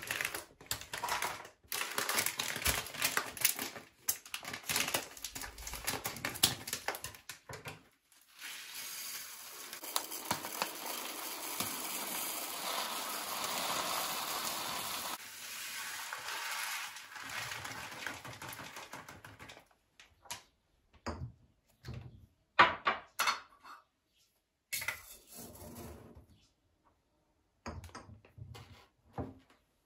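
Kitchen clatter of dishes and utensils being handled: quick clicks and knocks, then a steady hiss for about twelve seconds, then a few scattered knocks and taps.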